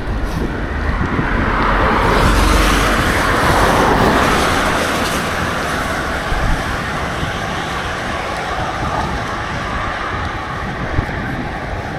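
Wind rushing over the microphone of a camera riding on a moving bicycle, with the hiss of the ride underneath. The rush swells louder about two seconds in and eases off by five seconds, with a couple of small clicks later.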